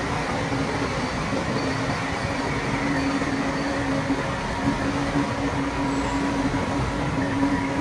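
Shantui crawler bulldozer's diesel engine running steadily, with a constant droning tone.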